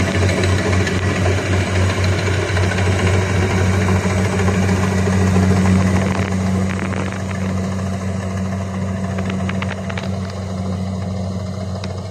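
Kubota rice combine harvester's diesel engine running with a steady, deep drone that grows somewhat quieter over the second half.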